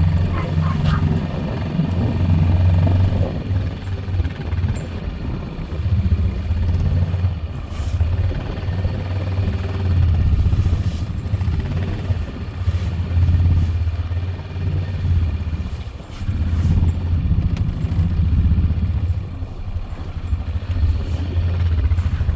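Four-wheeler (ATV) engine running, its revs rising and falling every few seconds as it works a small snow plow.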